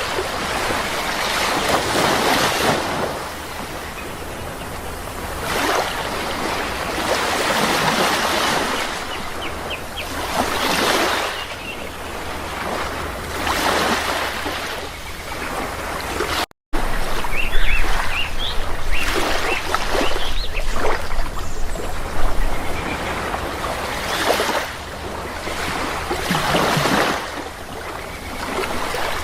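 Sea waves washing in and breaking on a shore, a swell about every three seconds, with a few faint bird chirps. The sound cuts out for an instant just past halfway.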